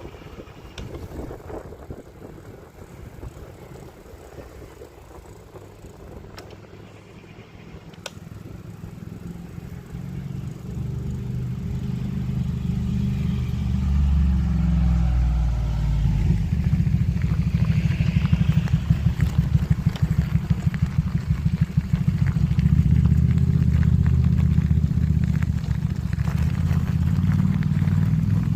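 Wind buffeting the microphone along with the rolling rumble of a bicycle ride. It grows much louder about a third of the way in and then stays loud, with a rapid fluttering.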